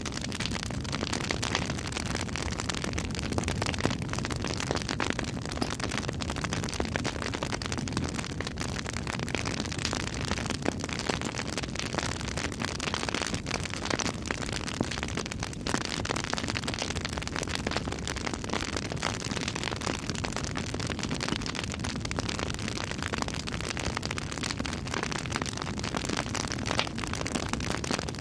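Wood fire burning, with dense steady crackling and frequent small sharp pops over a constant hiss.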